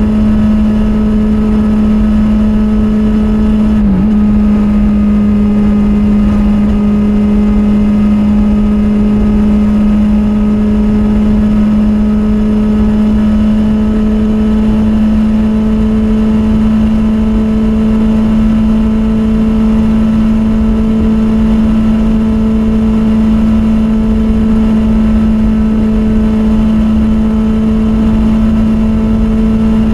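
Kawasaki Z800's inline-four engine through its stock exhaust, cruising at steady high revs with one constant note, dipping briefly about four seconds in.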